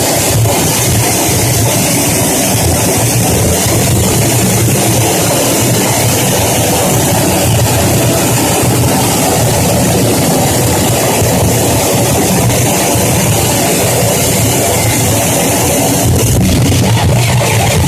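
Live harsh noise music: a loud, dense wall of distorted electronic noise with a steady low rumble under a hiss, turning rougher and slightly louder about sixteen seconds in.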